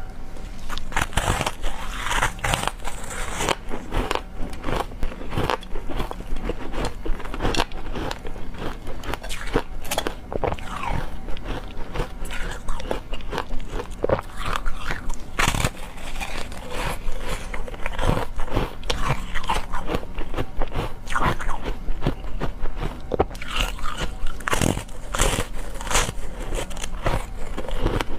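Ice being bitten and crunched close to the microphone: a dense, irregular run of sharp cracks and crunches with chewing.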